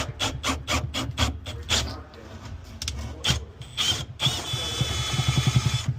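Tool work: a quick run of ratcheting clicks, about five a second, then a few single clicks. From about four seconds in, a small power tool whirs for nearly two seconds and stops abruptly.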